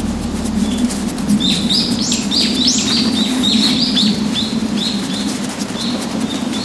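A songbird singing a fast run of short, repeated high notes, about four a second, starting a little over a second in and tapering off near the end, over a steady low background noise.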